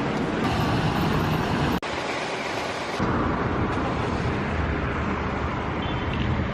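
Road traffic going by, a steady rushing noise that changes abruptly about two and three seconds in.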